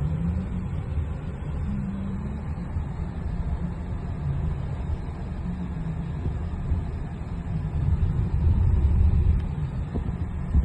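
Steady low rumble of a vehicle running at slow speed, growing a little louder for a second or so near the end.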